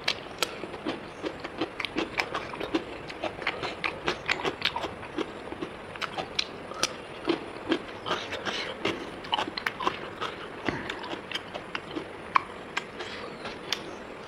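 A person eating rice and pork close to the microphone: chewing and lip-smacking, heard as a rapid, irregular run of short wet clicks.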